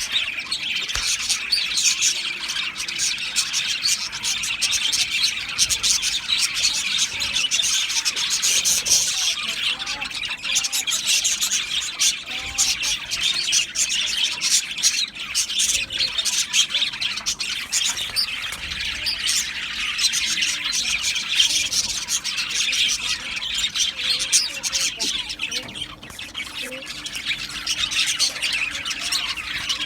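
A flock of budgerigars (budgies) chattering, with a dense, continuous mix of chirps, warbles and squawks.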